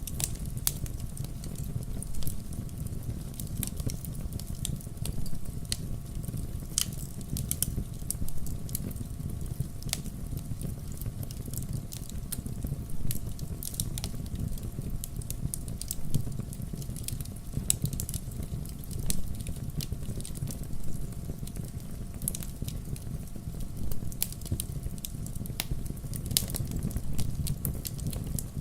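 Fire crackling in a fireplace: a steady low rumble of the flames with frequent, irregular sharp pops and snaps.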